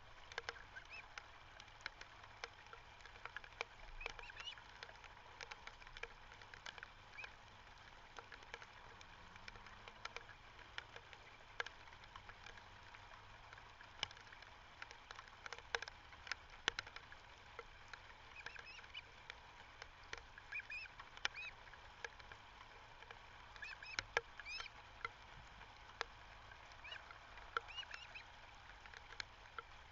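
Birds calling: short chirping calls in scattered bursts, more of them in the second half, over faint clicks and crackle.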